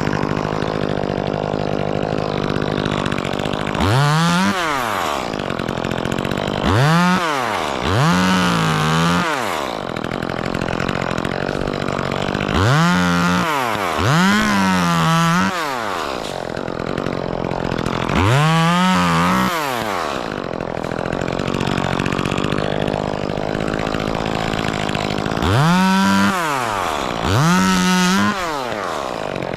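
Chainsaw running steadily, its throttle opened to full speed for about a second at a time and let back down, nine times, mostly in quick pairs.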